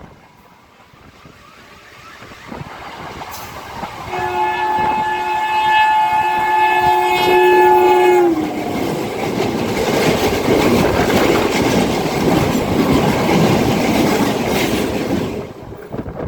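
An oncoming electric multiple-unit local train approaches with a rising rumble, sounds a steady multi-tone horn for about four seconds that dips in pitch as it ends, then rushes and clatters past close alongside for about seven seconds before the noise cuts off sharply.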